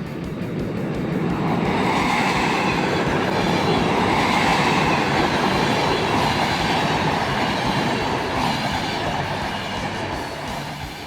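Hayabusa Shinkansen high-speed train passing, a steady rush of wheel and air noise that builds about a second and a half in, holds through the middle and fades away toward the end.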